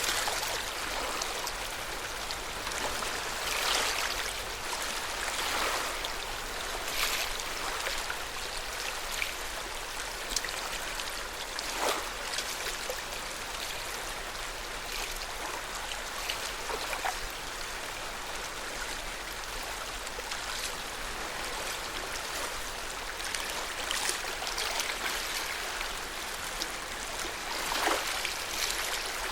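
Lake water lapping at the shore: a steady hiss of moving water with small, irregular splashes every few seconds.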